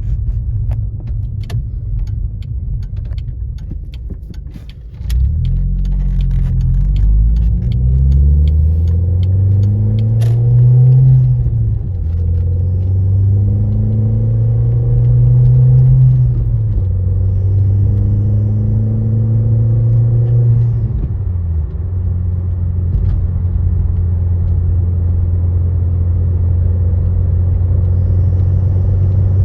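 Cabin sound of a VW Golf GTI 337 Edition, with its turbocharged four-cylinder under a low rumble of road noise. A quick run of small clicks is heard at first. About five seconds in, the engine note rises as the car accelerates and climbs in pitch through the gears, dropping at each of three shifts, then settles into a steady drone at cruising speed.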